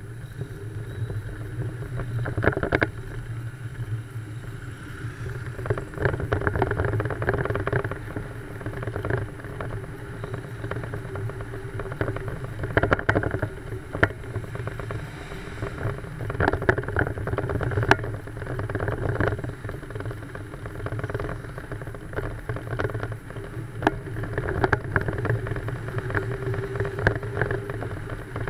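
An old car's engine running at low speed, with wind and road noise from a microphone mounted outside the car. Several sharp knocks or rattles come through now and then.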